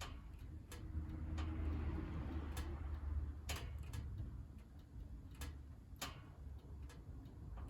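Firewood crackling as it burns in a wood stove: irregular sharp pops, about seven of them, over a low steady rumble from the fire.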